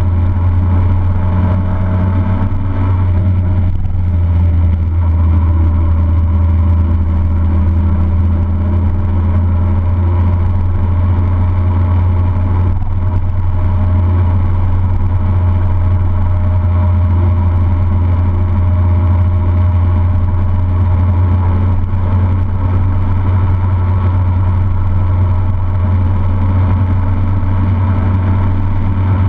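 A motor vehicle driving at a steady speed: a constant low engine drone with road noise, holding an even pitch throughout.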